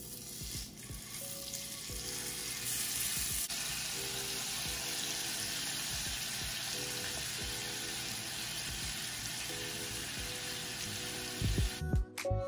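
Salmon fillet frying in hot oil in a nonstick pan: a steady sizzle that builds over the first two seconds and cuts off near the end.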